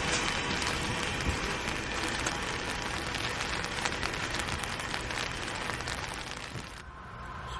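Freight cars of a grain train rolling by on the rails: a dense clatter of wheels over the track. The high part of the sound drops away suddenly about seven seconds in.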